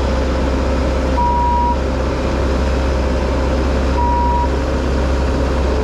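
Heavy diesel equipment engine running steadily, with a backup alarm beeping twice, about three seconds apart, as a machine reverses.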